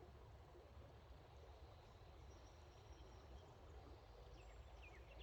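Near silence outdoors: a faint, steady low rumble. From about four seconds in, a bird gives a quick run of short, falling high notes.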